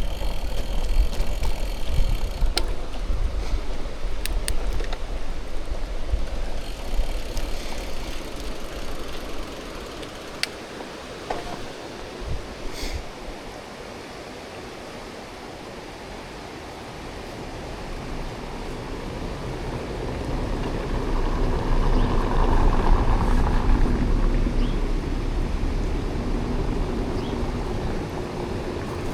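Wind buffeting the microphone and bicycle tyres rolling during a ride, a steady rushing rumble that dies down in the middle and rises again about two-thirds through.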